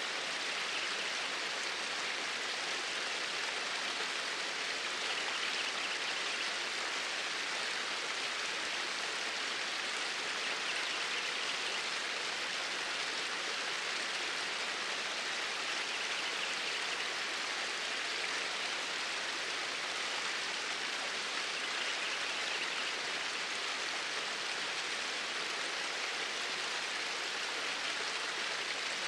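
Flowing stream water, a steady, unbroken rush.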